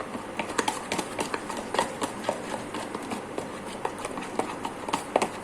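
A spoon or spatula clicking and scraping against a bowl while stirring milk into thick brownie batter, with irregular taps several times a second.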